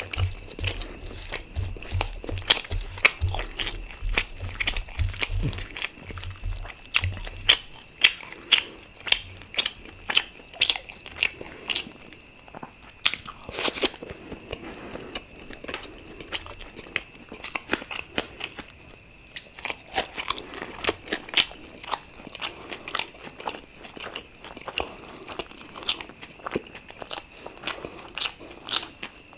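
Close-miked eating: a person biting and chewing puffed fried luchi bread with potato curry, full of sharp crackly mouth clicks and crunches. Low thumps sit under the first several seconds.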